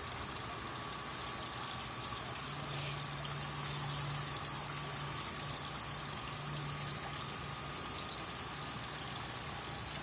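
Steady trickle of running water, with a low hum that swells for a few seconds in the middle.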